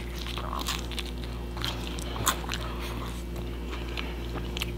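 Close-up eating sounds of someone chewing pizza: soft wet chewing with scattered small crunchy clicks, over a steady low hum.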